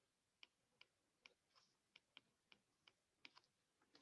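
Faint, irregular clicks and taps, about two to three a second.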